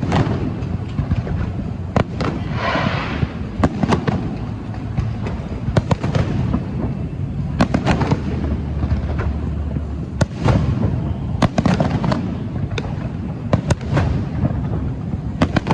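Fireworks going off: an irregular string of sharp bangs, several a second at times, over a continuous low rumble.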